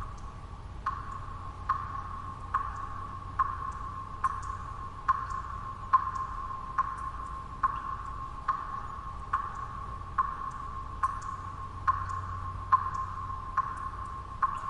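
Water drops falling one by one into water, each a short ringing plop, evenly spaced a little under once a second. Under them runs a steady low white-noise hum.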